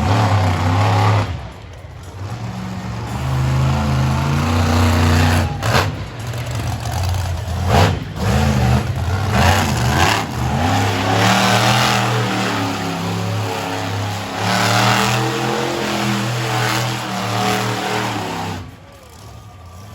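Monster truck engine revving hard, its pitch climbing and falling again and again, with a few sudden breaks in the sound.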